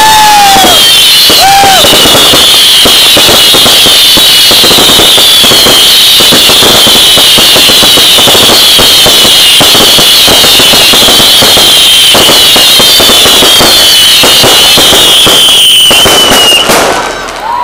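Fireworks going off without a break: dense, rapid crackling under many overlapping high whistles, very loud throughout. The whistling ends with a falling tone near the end.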